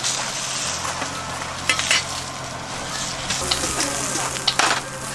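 Meat and vegetables sizzling in a stainless steel frying pan on a camp grill, a steady hiss with a few short metal clinks from tongs working the food.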